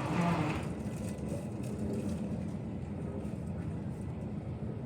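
Steady low rumble of airport background noise while boarding, with a voice heard briefly in the first half-second.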